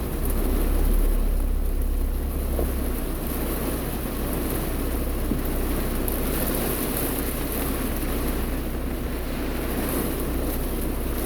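Heavy rain pouring down steadily, heard through a stopped car's open windows with the wipers off, over a low steady rumble underneath.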